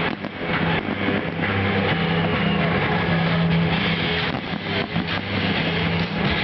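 Fireworks going off, a series of irregular bangs and crackles over a dense, loud rushing background, with a steady low note underneath.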